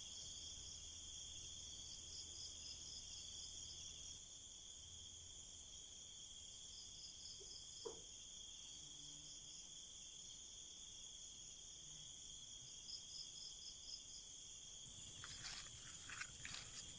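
Night insect chorus: crickets trilling steadily in several high-pitched layers, some with a fast pulsing beat. There is a single faint click about eight seconds in, and a few soft clicks and rustles near the end.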